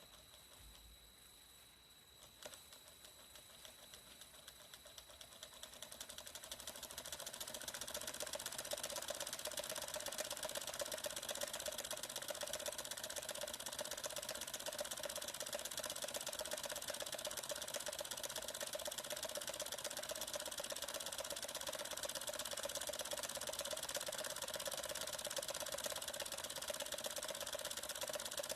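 Small homemade Stirling engine with glass-syringe pistons and a wooden flywheel running with a fast, even mechanical clatter. It starts about two seconds in, grows louder over the next several seconds, then runs steadily.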